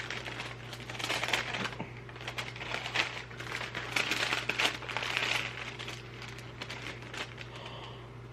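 Paper or plastic wrapping crinkling and rustling in irregular bursts as a package is unwrapped by hand, over a steady low hum.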